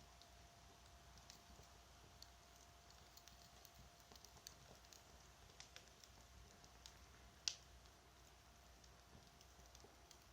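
Wood campfire crackling faintly, with scattered small pops and snaps and one louder pop about seven and a half seconds in.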